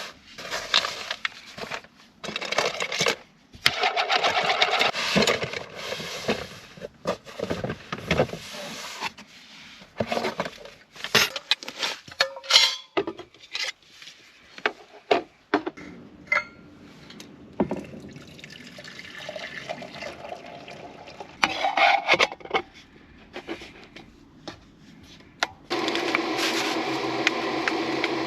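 Food and drink being prepared by hand in a small space: clicks, knocks and rustling of containers and packaging in irregular bursts, with a steady hiss starting near the end.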